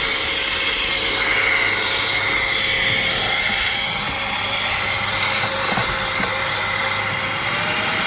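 HŌM cordless electric air duster and mini vacuum, its 51,000 RPM motor running at high power in vacuum mode with a steady high whine, its nozzle working over car air vents, with a few light knocks about six seconds in.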